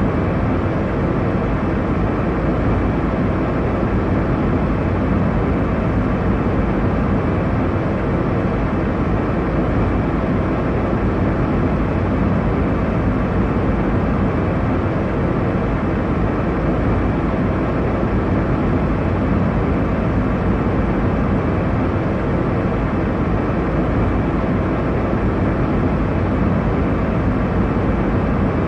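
Airliner cabin noise in flight: a steady, even rushing drone of engine and airflow, strongest in the low range and unchanging throughout.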